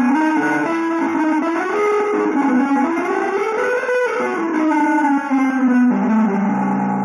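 Instrumental music led by a guitar playing continuous winding single-note lines that climb and fall, with a few lower held notes near the end.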